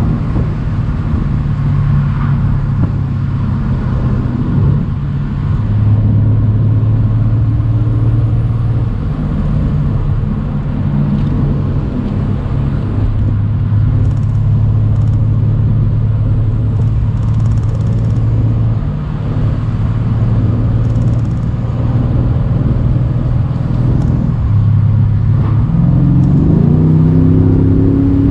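Mercedes-AMG C63 cabriolet's 4.0-litre twin-turbo V8 running while driving on a country road, its note holding at steady cruising revs with a few small changes in pitch. Near the end the revs climb as the car accelerates.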